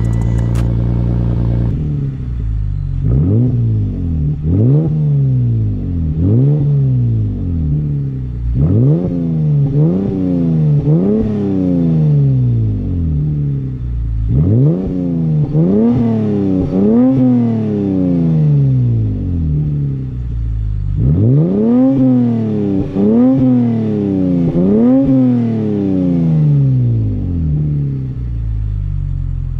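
Lexus IS 350 F-Sport's 3.5-litre V6 through a muffler-delete exhaust, idling, then blipped in quick revs in four groups of three or four, dropping back to idle between groups and at the end.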